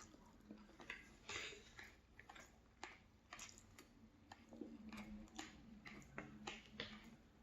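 Faint chewing of a mouthful of chicken: soft, moist mouth clicks about two a second.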